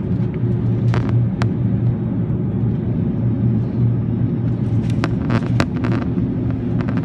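Steady low rumble and hum inside an Airbus A380's passenger cabin, with a few short clicks and knocks about a second in and again around five to six seconds in.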